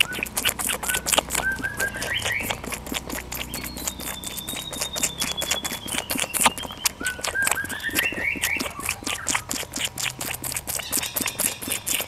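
Bird whistles rising in pitch in small steps, twice, with a long, slowly falling trill in between, over a fast, steady clicking.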